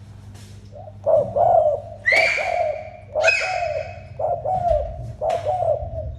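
Spotted dove cooing in repeated phrases of low coo notes, starting about a second in. Three brief, higher calls cut across the cooing.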